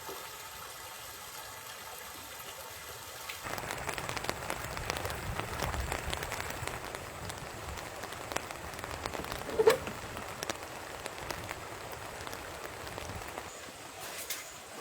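Rain pattering on a surface, growing suddenly heavier and denser about three and a half seconds in and easing again near the end, with a single sharp clack about ten seconds in.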